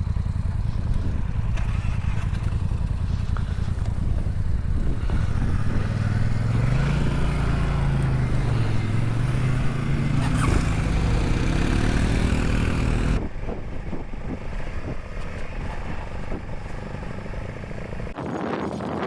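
Dual-sport motorcycle's single-cylinder engine running under way on a dirt trail, its pitch rising and falling as the revs change. About two-thirds of the way in, the sound drops abruptly to a quieter engine with wind noise.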